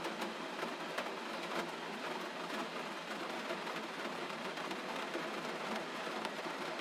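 Steady gentle rain: an even hiss with faint scattered drop taps.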